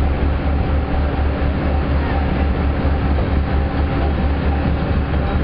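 A Whitcomb-built locomotive pulling a tourist train at a steady pace, heard from an open-sided passenger car: a continuous rumble with rail noise. Wind buffets the microphone in the lowest range.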